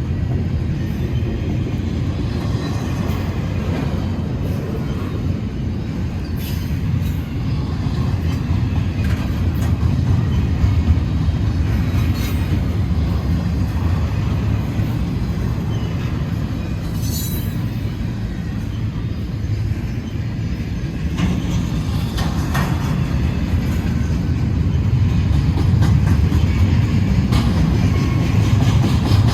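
Intermodal stack cars of a freight train rolling past: a steady low rumble of wheels on rail, with scattered clanks and a brief high-pitched wheel squeal partway through, growing louder near the end.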